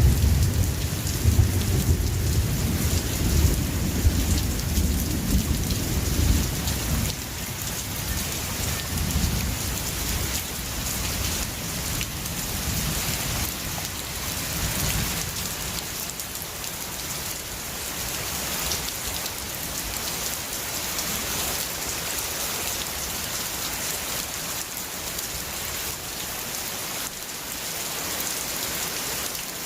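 Steady heavy rain with thunder rumbling at first, the rumble dying away within the first few seconds and a fainter roll a few seconds later, leaving an even hiss of rain.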